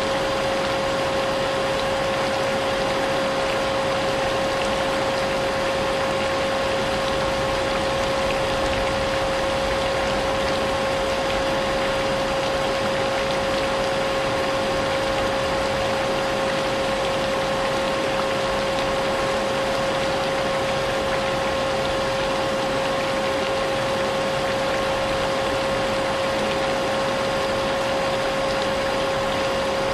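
Vacuum cleaner running steadily with an unchanging motor whine, mixed with a constant hiss of rain.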